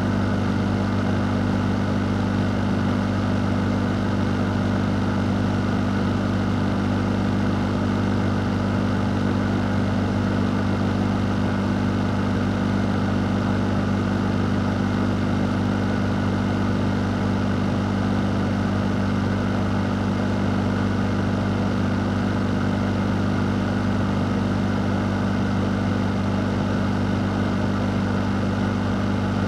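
Fan running continuously: a steady low motor hum under an even rush of air, unchanging throughout.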